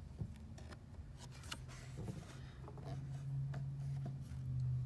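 Quiet room tone: faint scattered clicks and brief rustles over a low steady hum that grows louder about three seconds in.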